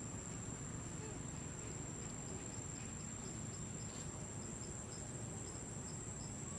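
Insects calling: a steady high-pitched buzz, joined about two seconds in by a short high chirp repeating about three times a second for some four seconds, over a low outdoor background hum.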